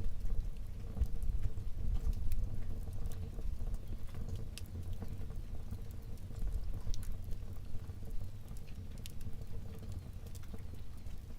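Wood fire burning in a fireplace: a low rumble of flames with scattered sharp crackles and pops.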